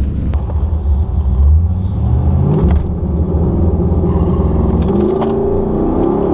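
Cammed LS1 V8 of a Holden VX Calais heard from inside the cabin, running with a deep rumble. The revs rise about two seconds in and climb again near the end.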